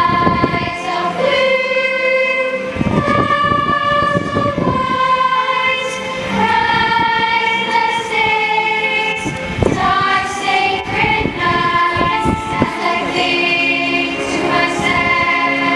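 A choir singing long held notes with musical accompaniment, with a few short sharp knocks or pops among them.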